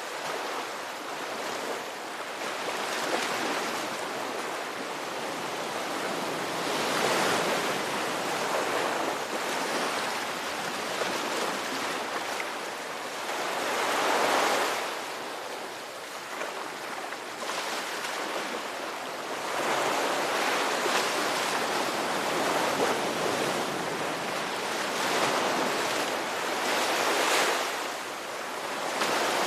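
Ocean surf: waves breaking and washing in, swelling and fading every several seconds over a steady hiss of water.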